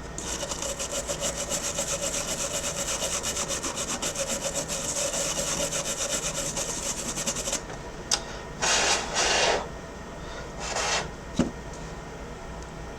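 A brush scrubbing a laptop motherboard clean with quick, rhythmic strokes. After it stops, there are three short hisses and a couple of light clicks.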